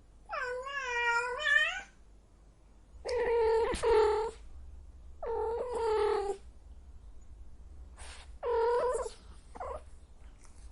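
A cat meowing four times, long drawn-out wavering meows with short pauses between them, the last one shorter.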